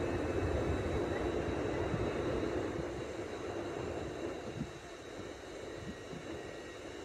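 A TransPennine Express Class 802 bi-mode train standing at the platform, giving off a steady mechanical hum with a few faint high tones. The hum eases off slightly about four and a half seconds in.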